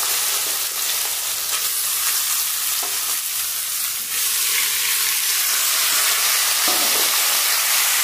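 Boiled raw plantain slices frying in hot oil in a kadai, a steady sizzle while they are tipped in and stirred with a metal spatula. The sizzle gets louder about four seconds in, as more slices go into the oil.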